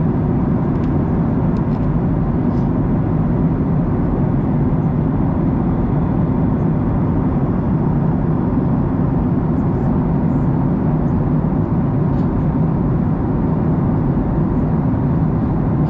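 Steady cabin noise of a Boeing 737-900ER in flight: an even, deep rush of engine and airflow noise with no change.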